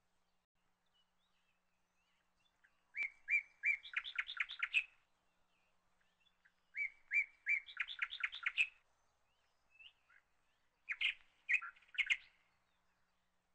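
A small bird singing in three short phrases, each a few separate chirps followed by a quick run of notes.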